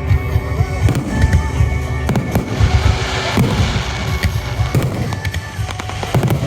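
Fireworks going off in rapid succession: a dense rumble of low booms with many sharp cracks. Music plays underneath.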